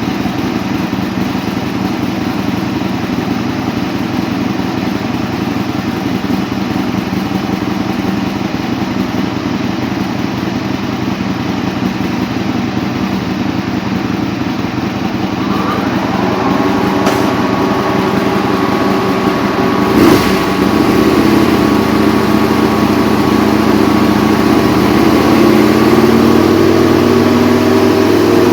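Aprilia RSV Mille Tuono's 998 cc V-twin with an aftermarket LeoVince exhaust, running on a dyno: it idles steadily, then a little past halfway it grows louder and a steady whine joins in. Near the end the engine note begins to climb as the run starts, and there is one sharp click partway through.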